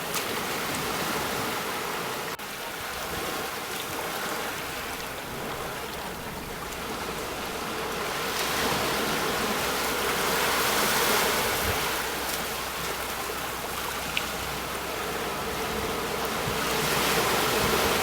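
Sea waves breaking on the shore: a continuous wash of surf that swells louder for a few seconds in the middle and again near the end.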